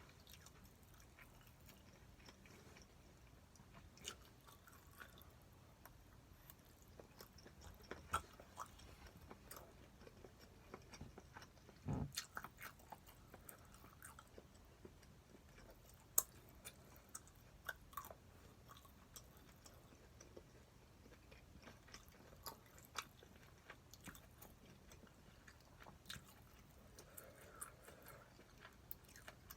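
Faint chewing as a person eats stir-fried pork, with scattered sharp clicks and a heavier knock about twelve seconds in.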